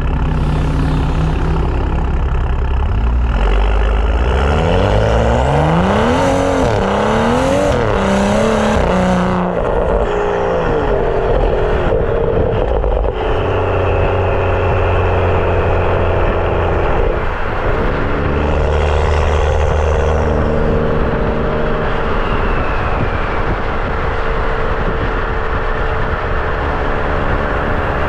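BMW F30 335i's turbocharged straight-six, breathing through a catless downpipe and M Performance exhaust, accelerating through the gears: its pitch climbs several times and drops back at each shift. After that the engine runs at a steady drone.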